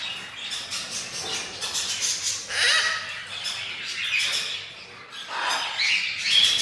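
Many birds squawking and chirping at once, with louder harsh squawks about two and a half seconds in and again near the end.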